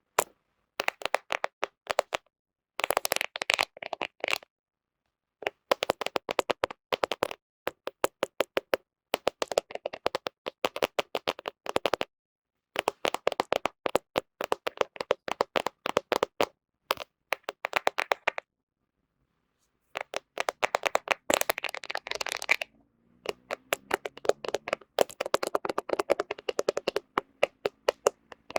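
Fingernails tapping and scratching right on a smartphone camera lens, close-miked. The rapid clicking taps come in bursts of a second or two, with short dead-silent gaps between them, and there is a denser stretch of scratching about three-quarters of the way through.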